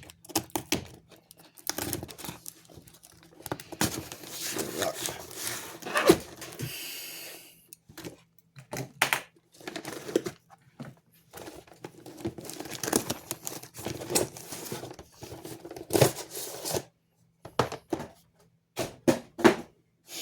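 A box being torn and pulled open by hand, its packaging tearing, crinkling and rustling in irregular bursts, with a few sharp clicks and knocks as it is handled.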